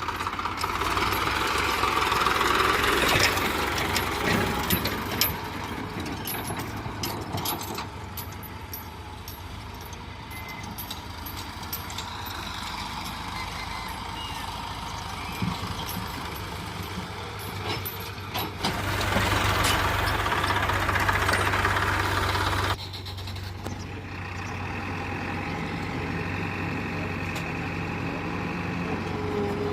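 Tractor engines running, heard in several cuts that change abruptly about 19 and 23 seconds in, with a louder, noisier stretch between them.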